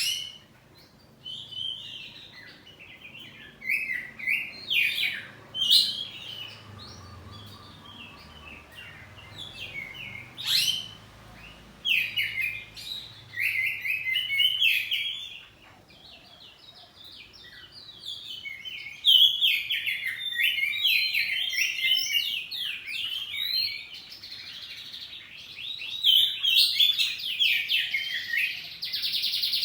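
Oriental magpie-robins (kacer poci) singing back and forth, a string of varied whistled and chattering phrases in bursts with short pauses. The song becomes denser and more continuous after about two-thirds of the way through, with a harsher buzzy phrase near the end.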